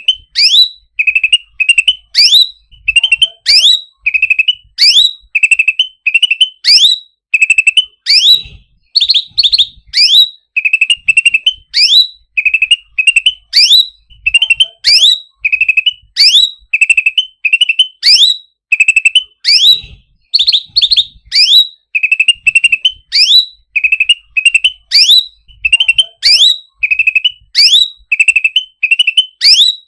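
Songbird known in Indonesia as cucak ranting calling over and over: each call a quick chatter followed by a sharp upward whistle, repeating without pause about twice a second.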